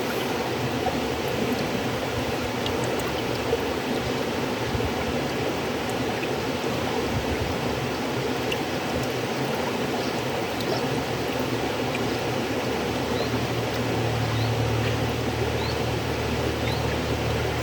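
River water flowing in a steady, continuous rush, with a low rumble that swells about two-thirds of the way through.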